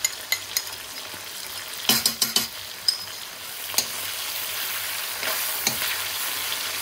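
Onions, peppers, ginger and garlic sizzling in hot oil in a cast iron karahi over high gas, stirred with a metal spoon that knocks and scrapes against the pan. There is a quick cluster of sharp knocks about two seconds in, and the sizzle grows louder from about halfway.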